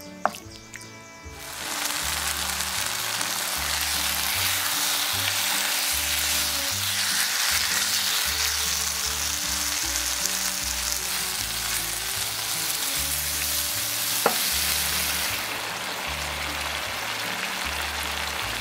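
Pork belly in chili and fermented-fish paste sizzling in a non-stick wok while stirred with a wooden spatula. The sizzling starts about a second and a half in and is softer for the last few seconds, with two short knocks along the way, over background music.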